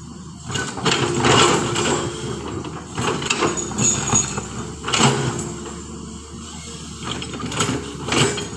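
A heavy diesel engine running steadily, with several loud metallic clanks and scrapes breaking through at uneven intervals.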